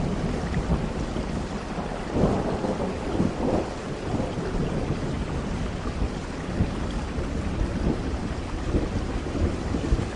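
Thunder rumbling over steady rain, swelling loudest about two to four seconds in.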